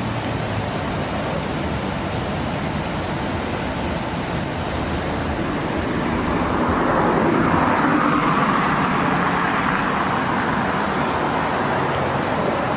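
Steady road traffic noise, with a vehicle passing that swells to its loudest about seven to eight seconds in and then fades.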